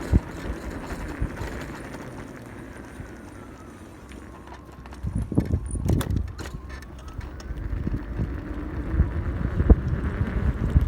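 1500 W hub-motor electric pit bike being ridden over pavement, with rumble and a faint motor whine that falls and then rises again. A burst of clattering knocks comes around the middle as the bike jolts over bumps.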